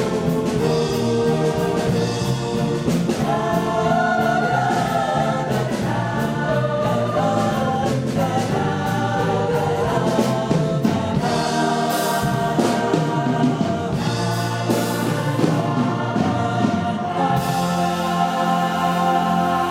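A choir singing in harmony, with long held chords and no clearly sung words.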